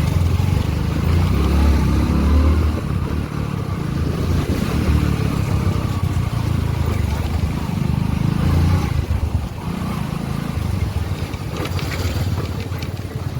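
Motorcycle engine running on the move, a steady low rumble that swells and eases several times.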